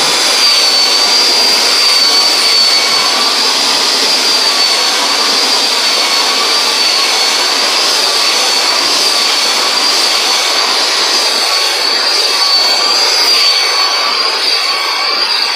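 Conair styler hair dryer with a comb attachment running steadily: a loud rush of air with a high, slightly wavering whine.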